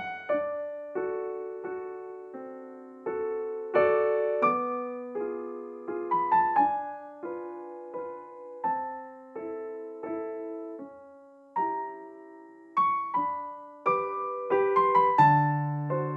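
Background piano music: slow, gentle single notes and chords, each ringing out and fading, with a low bass note joining near the end.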